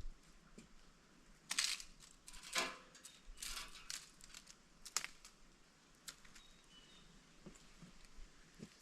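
A tired man's heavy breathing: three short, hard breaths in the first few seconds, then a sharp click about five seconds in and a few faint ticks.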